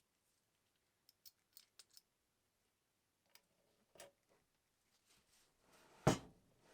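A few faint clicks and light taps, then one louder knock about six seconds in with a short rustle after it, like small parts and tools being handled on a workbench.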